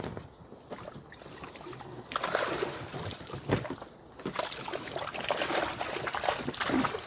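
Water sloshing, splashing and trickling beside a small boat, getting louder about two seconds in, with scattered small knocks, as the catch is lifted out of the water.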